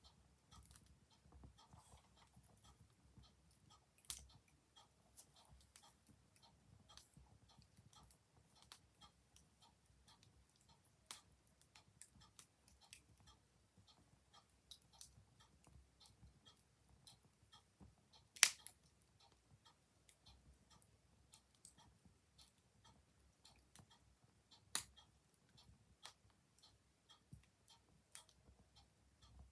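Wood fire crackling quietly, with scattered small clicks and a few louder pops at irregular intervals, the loudest about eighteen seconds in, over a faint low rumble.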